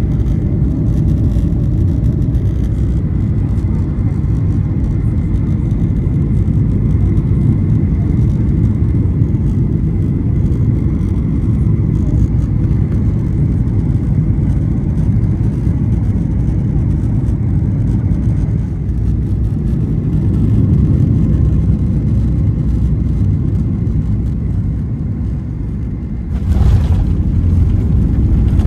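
Steady low rumble of a running vehicle, like road or engine noise heard from inside. About 26 seconds in, a short sharp sound and a step up in level break it, and the rumble carries on slightly louder.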